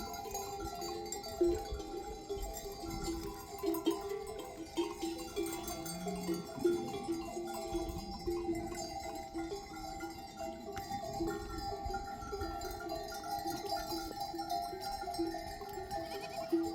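Bells on a flock of sheep clanking irregularly as the animals move, with a sheep bleating once about six seconds in.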